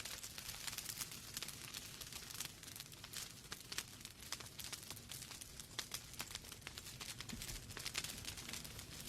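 Wood fire burning in a fireplace: logs crackling with many quick, irregular sharp pops over a soft low rumble of the flames.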